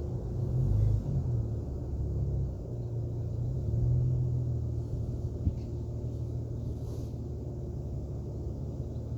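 2003 Ford Mustang's 3.8-litre V6 running through a Magnaflow dual catback exhaust, a low exhaust rumble. It swells a few times in the first seconds, then settles to a steady, slowly fading note.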